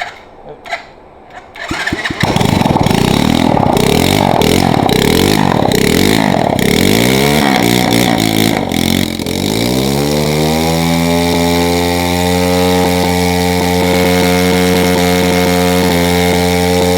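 Coolster 110 pit bike's small single-cylinder four-stroke engine: a few sharp clicks, then it catches about two seconds in and is revved up and down. About ten seconds in it climbs to a high rev and is held there steadily at full throttle for a burnout, spinning the rear tyre to burn it off.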